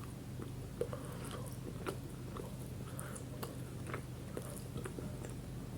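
A person chewing a mouthful of a Subway footlong dipper, a rolled bread snack, with irregular soft mouth clicks.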